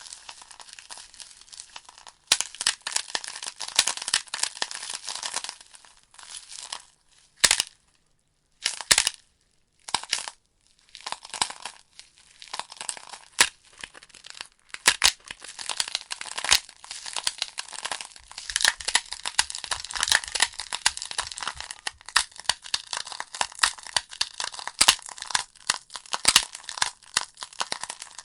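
Wood fire crackling: burning logs giving a dense run of sharp snaps and pops. About a quarter of the way in the crackle thins to a few lone pops with near-silent gaps, then builds back to a steady dense crackle.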